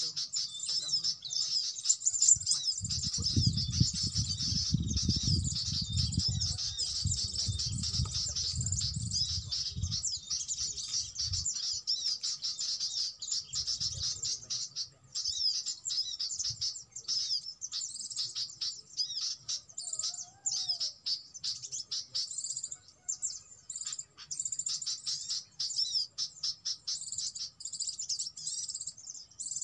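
Small birds chirping rapidly and continuously in a dense, high-pitched stream, thinning out in the second half. A low rumble sounds underneath from about three to eleven seconds in.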